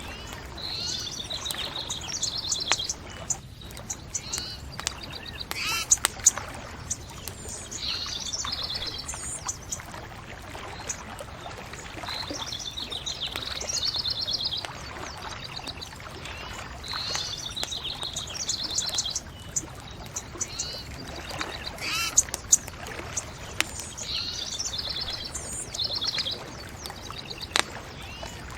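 Songbirds singing repeated short trilled phrases over a steady low rush, with a few sharp pops from a crackling bonfire.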